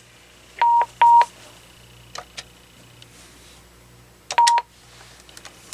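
AT&T 7720 cordless phone giving short single-pitch key beeps as its buttons are pressed: two beeps in quick succession about half a second in and one more about four seconds in, each with a plastic button click, and a couple of lighter clicks between.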